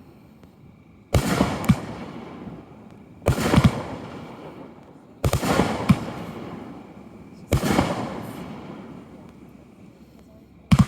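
Aerial fireworks going off in a steady sequence: five loud bangs roughly two seconds apart, each followed by a sharp second report and trailing off over a second or two.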